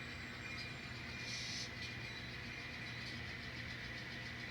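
N scale model diesel locomotives, a sound-equipped consist led by an SD40-2 with GP38-2 and GP40 units, running with a steady diesel engine hum. A short hiss comes a little over a second in, with fainter ones around half a second and three seconds in.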